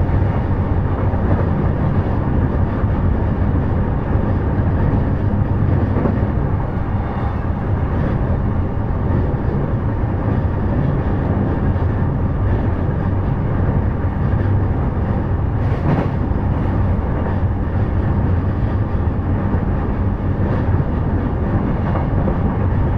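JR East E233 series electric train running, heard from inside the car: a steady rumble of wheels on rail, with one brief sharp click about two-thirds of the way through.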